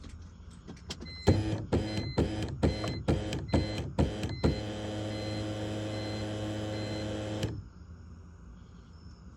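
BMW E46's M54 straight-six being cranked by its starter without firing: a pulsing cranking sound at about two pulses a second, then about three seconds of steady whirring that cuts off suddenly, the engine cranking but not starting. A high beep repeats throughout.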